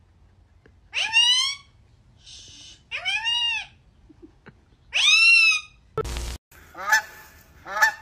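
A bird calling: three loud calls about two seconds apart, each rising then falling in pitch. About six seconds in comes a short, sudden loud thump, followed by a run of quicker, shorter calls.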